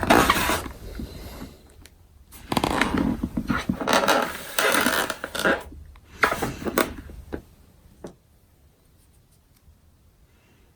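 Rubbing and scraping handling noise in three bursts, the longest about three seconds, then quiet from about eight seconds in.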